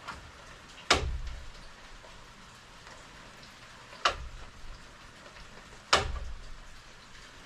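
Three sharp knocks on the wooden kayak frame, the first about a second in, then two more roughly three and two seconds apart, each with a short low thud, over a steady faint hiss.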